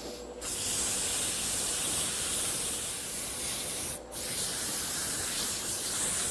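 Sandpaper held against a wooden bat spinning on a wood lathe, making a steady hiss. It starts about half a second in and lets up briefly about four seconds in.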